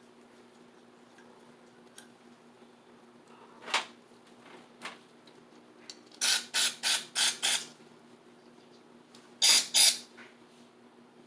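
Aerosol carburetor cleaner spraying in short hissing bursts: two single puffs, then a quick run of five, then two more near the end.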